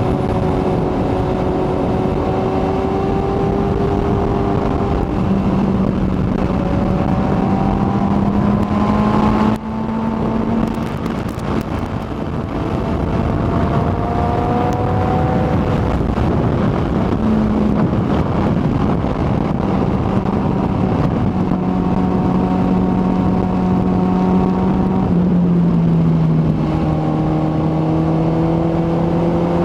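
Kawasaki ZX-14R's inline-four engine running steadily at speed, its pitch drifting slowly up and down. There is a brief dip in level about ten seconds in, and a step down in pitch a few seconds before the end.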